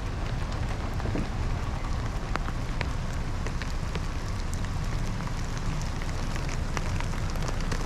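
Rain falling in scattered pattering drops over a steady low rumble.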